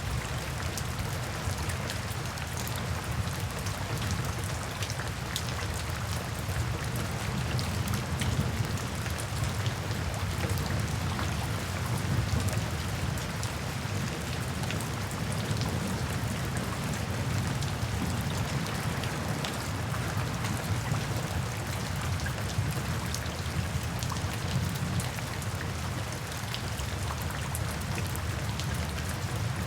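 Steady rain falling, a dense patter of individual drops over an even low rumble.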